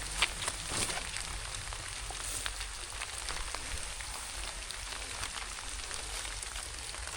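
Steady rain falling, an even hiss with many small scattered drop ticks and a couple of louder clicks within the first second.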